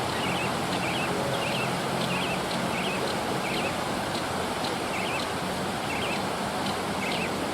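A forest bird repeating a short, high, wavering call about every two-thirds of a second, over a steady rushing background noise.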